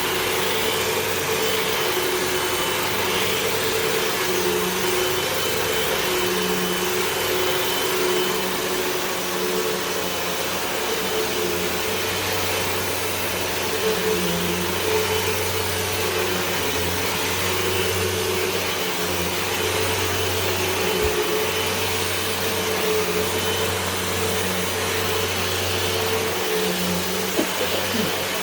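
Hoover WindTunnel 2 Whole House Rewind upright vacuum cleaner running steadily while vacuuming, its motor humming over a constant rush of air.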